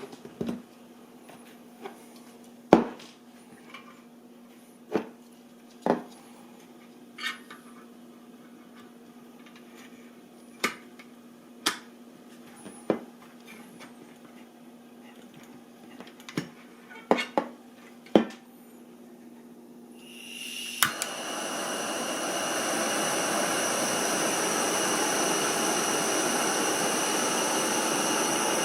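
Scattered clinks and knocks of cookware being handled, then about 20 seconds in a click and the Soto G-Stove's gas burner lights and runs with a steady hiss, a few high whistling tones on top.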